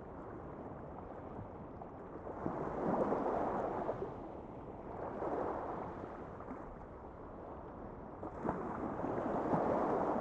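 A rushing noise that swells and fades in slow surges, about every three seconds, with no tone or rhythm in it.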